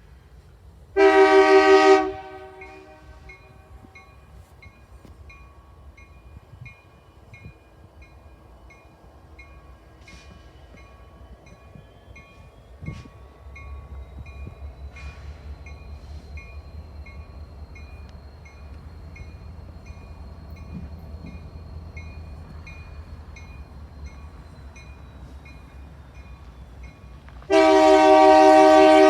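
Locomotive air horn sounding two blasts: a short one about a second in and a longer one at the end. Between them the low rumble of an approaching train builds from about halfway through.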